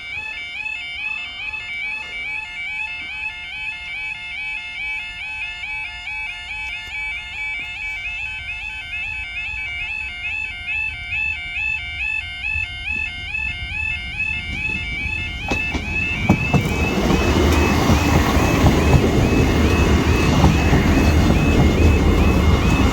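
Level crossing warning alarm sounding a steady, rhythmic two-tone warble. About two-thirds of the way in, a loud rushing rumble from a train coming through the crossing rises and drowns it out.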